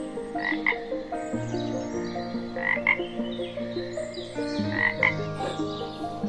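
An animal calling in pairs of short, quick calls, three pairs about two seconds apart, over background music with sustained chords.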